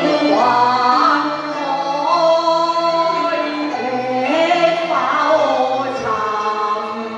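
Cantonese opera (粵曲) singing over instrumental accompaniment: a voice in long, wavering sung phrases above low held notes from the band.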